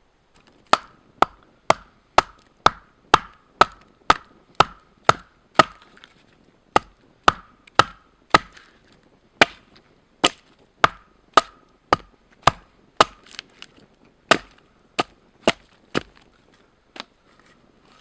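Wood being chopped with an axe in quick, regular strokes, about two a second, each blow a sharp crack with a short ring. There are brief pauses about six and nine seconds in, and the chopping stops a couple of seconds before the end.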